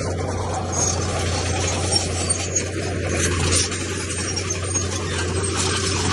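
Heavy diesel earthmoving machinery running steadily under load, with stone scraping and clinking as it is pushed.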